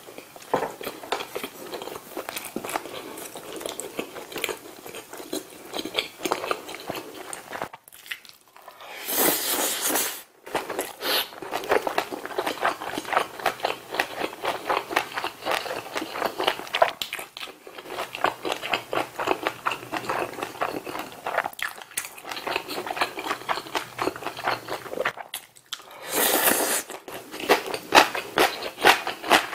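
A person chewing a full mouthful of food close to the microphone: steady wet, smacking and crunching chews with short pauses, and two brief louder noisy bursts, one about a third of the way in and one near the end.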